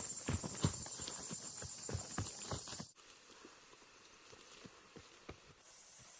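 High, steady buzzing of forest insects, with many irregular knocks and taps over it for the first three seconds. It cuts suddenly to a quieter insect hiss with a few scattered taps and a short pulsed chirping near the end.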